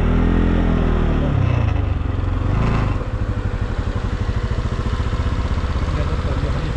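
Motorcycle engine running on the road: the revs ease off in the first second or so, then settle into a low, even, fast pulsing beat.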